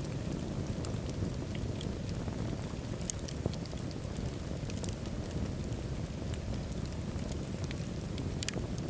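Wood fire burning in a fireplace: a steady low rumble of flames with scattered sharp crackles and pops. A louder pop comes about three seconds in and another near the end.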